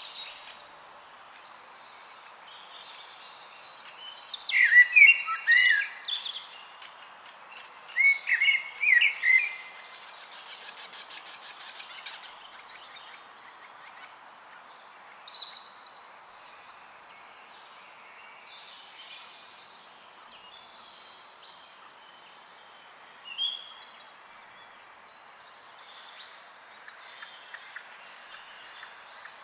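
Songbirds singing and chirping, with two loud bursts of song about four and eight seconds in, over a steady hiss.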